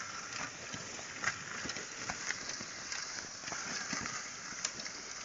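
Oxen pulling a plough through soil: scattered soft knocks and footfalls over a steady outdoor hiss.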